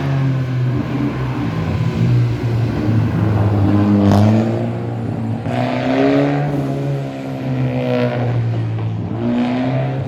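Rally car engine revving in repeated bursts, its pitch sweeping up about every two seconds over a steady running note.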